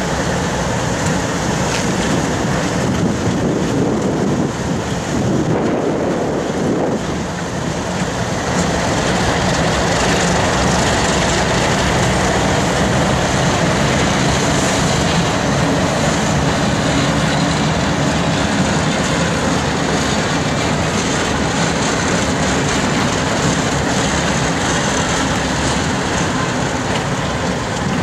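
Freight train rolling by: a steady rumble and rattle of cars on the rails, growing a little louder about eight seconds in.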